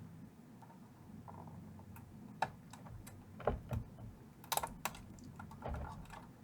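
Faint, irregular clicks and taps of hand tools and stiff wires being worked inside a vintage tube-amp chassis, as a wire wrapped tightly around a terminal is pried at to free it.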